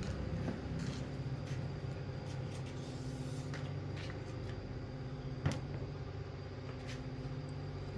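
A steady low machine hum with scattered light clicks and one sharp knock about five and a half seconds in.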